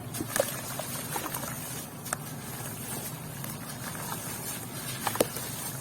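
Wet white cement with grains being crumbled: a steady patter of small crunchy crackles, with sharper single cracks about half a second in, around two seconds and near the end.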